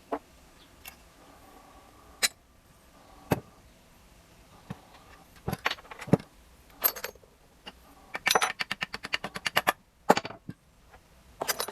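Small steel engine parts clinking and knocking as a motorcycle gearbox is taken apart by hand, with scattered single taps and a quick run of about a dozen clicks a little past the middle.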